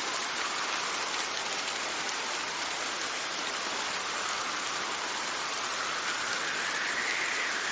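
Steady rain with wind, a gust swelling and rising in pitch near the end.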